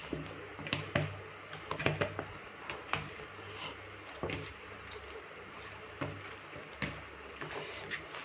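Hands kneading oiled flour dough: irregular soft squishes and light taps, about a dozen in all, over a faint steady low hum.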